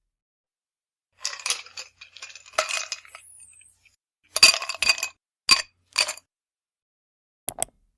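Light clinks with a bright ringing tone: a cluster of clinks starting about a second in, then five sharper, separate clinks between about four and six seconds in, and a quick double click near the end.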